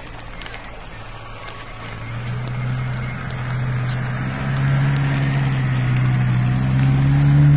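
Off-road vehicle's engine running as it drives up a muddy forest track, a steady drone that grows louder from about two seconds in and is loudest near the end.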